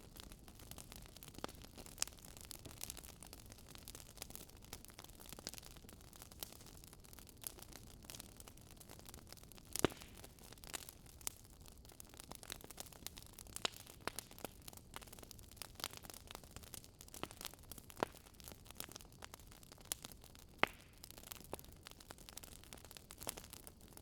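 Campfire crackling: irregular sharp pops and snaps from burning wood over a steady low hiss.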